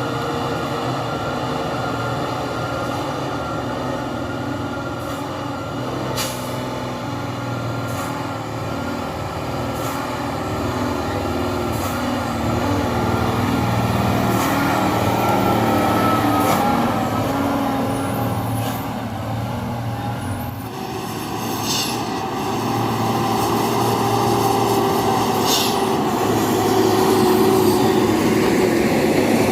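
Loaded dump truck engines labouring up a steep climb, with a steady high whine over the engine note and a few short sharp hisses. It grows louder near the end.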